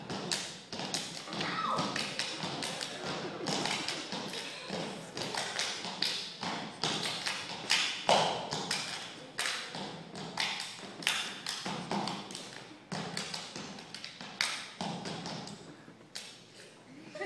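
Step dancers stomping and clapping: a quick, uneven run of sharp claps, stomps and body slaps, several a second.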